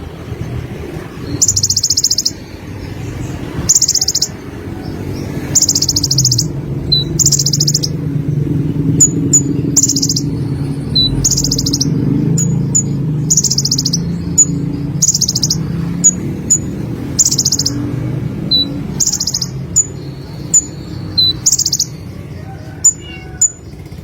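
Konin sunbird singing: high, buzzy trilled phrases about half a second long, repeated every second or two, with short sharp chirps in between, over a low steady rumble.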